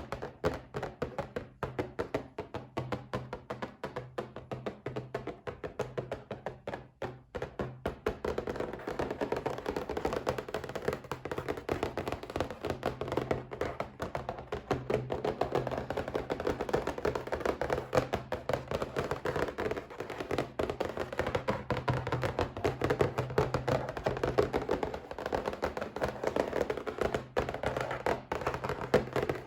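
Rapid, continuous tapping on a box, many light taps a second, going on without a break.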